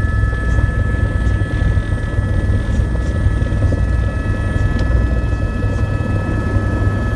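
Helicopter in flight: the turbine and rotor run steadily, with a heavy low rotor thrum under a constant high whine.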